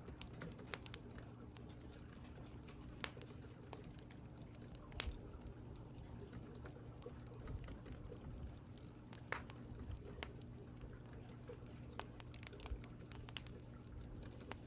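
Typing on a computer keyboard: irregular, sparse key clicks over a faint steady low background hum.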